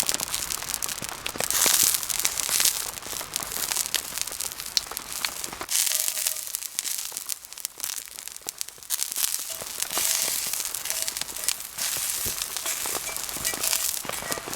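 Wood campfire crackling with many sharp pops, over the hiss of falling rain.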